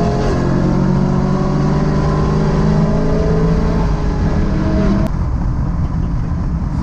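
Boosted Chevrolet Camaro's engine, heard from inside the cabin, running flat out at redline in third gear. About five seconds in the throttle is lifted and the engine note drops away abruptly, leaving road and wind rumble.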